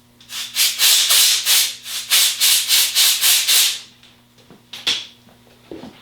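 Compressed-air blowgun fired in a series of short, loud blasts for about three and a half seconds, blowing metal shavings and gunk off the magnetic gearbox drain plug. A sharp click follows about five seconds in.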